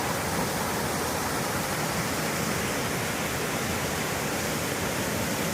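Steady rush of creek water flowing over a bare stone bed, an even noise without breaks.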